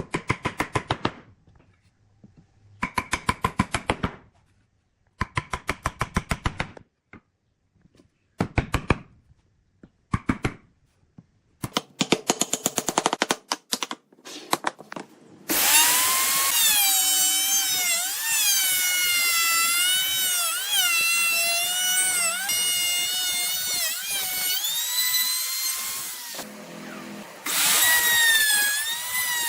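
Woodworking power tools. A driver-type tool runs in several short bursts of rapid clicking, each about a second long. From about halfway a power tool runs continuously, its pitch wavering up and down as it works the wood, with a short break near the end.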